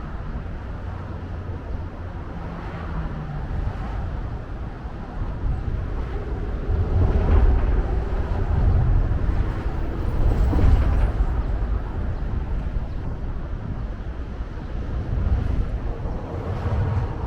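Outdoor city ambience dominated by a low, uneven rumble that swells louder through the middle, with faint distant voices.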